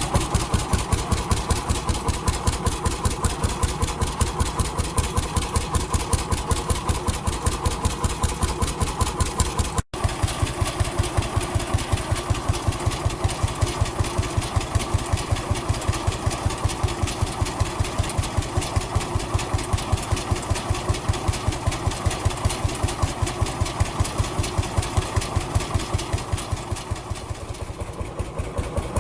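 A vintage engine running steadily with an even, regular beat of firing strokes, broken by a momentary gap about ten seconds in.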